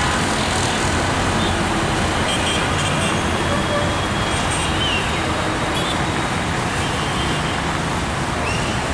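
Metre-gauge passenger train rolling slowly away along the rails: a steady rumbling noise with a few faint, short high squeals.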